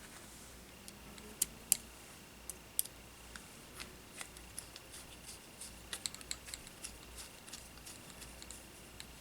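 Small tools and drone-frame parts clicking and tapping on a workbench, with a few sharper clicks in the first three seconds and a quick run of them about six seconds in. A faint steady high tone starts about a second in.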